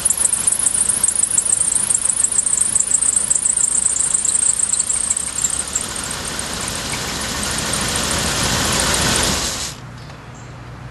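1988 Chevrolet Suburban's 350 TBI V8 running with a rapid knock and a high-pitched squeal over it, then shut off near the end. The knock is one the owner puts down to the engine having been run hot.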